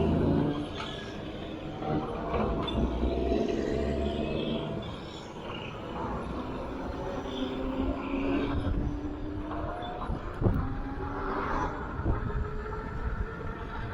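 E-bike in motion: a motor whine that rises and falls in pitch with speed, over a steady rumble of tyre and wind noise, with a few light knocks.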